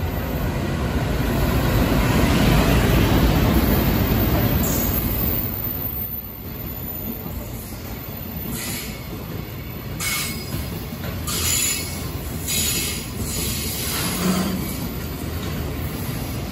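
A JR Freight EF510 electric locomotive passes close, loudest a few seconds in, followed by the rumble of container wagons rolling by as the freight train slows to a stop. From about eight seconds in come repeated short, high-pitched squeals of wheels as it brakes.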